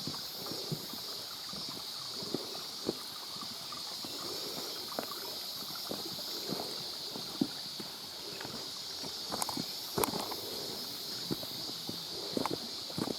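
Footsteps on a wet, rocky trail with water flowing over it, with sloshing and scattered clicks and knocks, over a steady high-pitched hiss.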